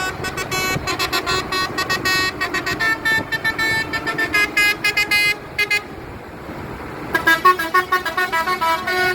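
Musical vehicle horns tooting out a tune as a fast run of short pitched notes, breaking off after about six seconds and starting up again near the end.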